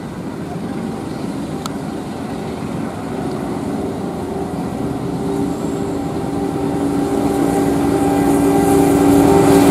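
Diesel-hauled passenger train approaching over a steel truss bridge, its running growing steadily louder, with a long, steady horn that is very soft and swells in the second half.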